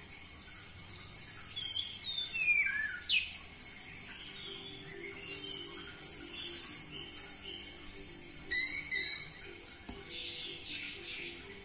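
Orange-headed thrush (anis merah) singing: several bursts of quick, high, down-slurred whistled notes, the loudest about two seconds and about nine seconds in.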